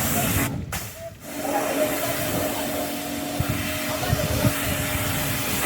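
Pressure washer running: a steady motor hum under the hiss of the water spray, cutting out briefly about half a second in and then starting again.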